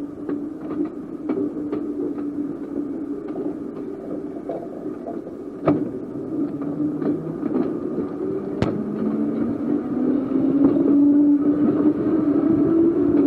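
Seaton Tramway electric tram running along the track: a steady motor hum with light clicks from the rails and two sharp knocks about three seconds apart. Near the end the motor tone rises in pitch and grows louder as the tram picks up speed.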